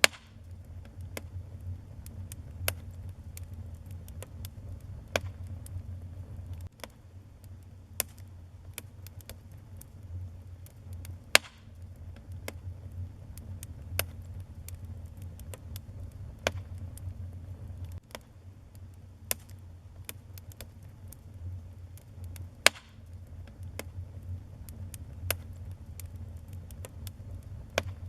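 Wood fire burning in a fireplace: a steady low rumble with irregular crackles and pops, and a couple of loud snaps about eleven and twenty-three seconds in.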